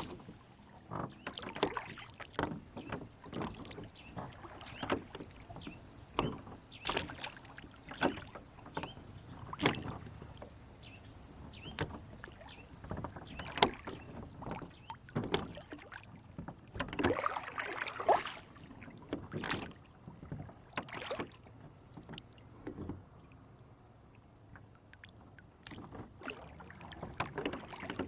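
Small rowboat on a lake: irregular splashes and light knocks of water against the hull and oars, busiest in the middle and quieter a little before the end.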